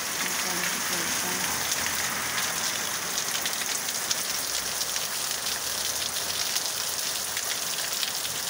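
Steady rain falling on a lawn and trees: a dense, even hiss of drops with fine patters.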